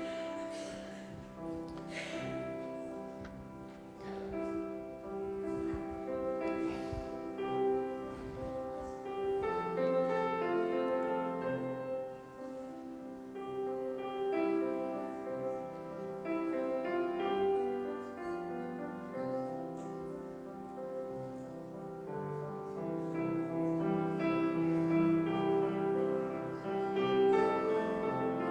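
Instrumental prelude music played on a keyboard, slow held chords.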